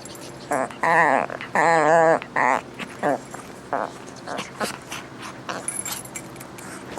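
Dog whining in high, wavering cries while playing: two long loud ones about a second in, then several shorter ones, with light clicks and scuffles.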